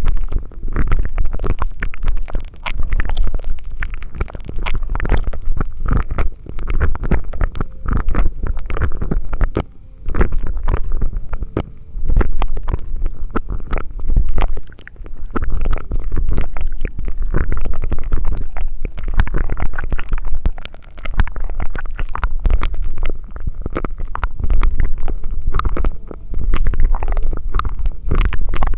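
Close-miked ASMR mouth sounds: dense wet crackling and clicking over a low rumble, with brief pauses every few seconds.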